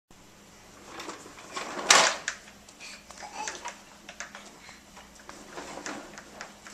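Fridge magnets being handled against a refrigerator door: scattered small clicks and knocks, with one louder clatter about two seconds in.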